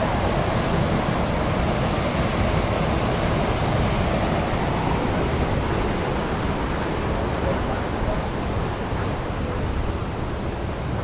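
Steady rush of surf washing onto a sandy beach, mixed with wind on the microphone.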